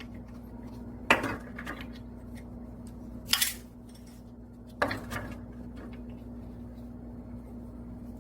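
Kitchen bowls and utensils clinking three times, sharp and brief, as shelled walnuts and pine nuts are added to a mixing bowl, over a steady low hum.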